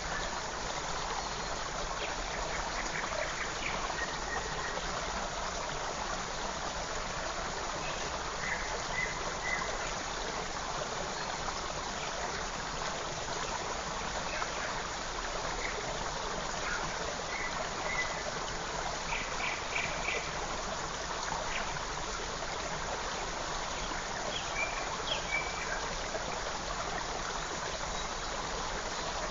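Forest stream running steadily, with short high bird chirps breaking in over it every few seconds.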